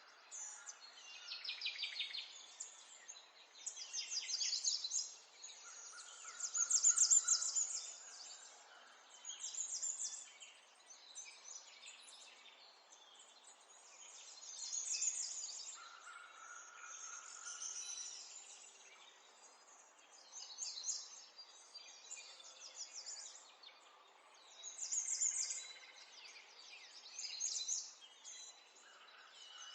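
Songbirds singing and twittering: short high trills and chirps that come every second or two, overlapping one another, over a faint steady background hiss.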